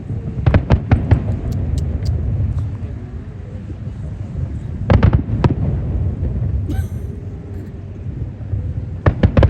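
Fireworks going off: a quick run of sharp bangs about half a second in, two more near the middle, and another cluster near the end, over a steady low rumble.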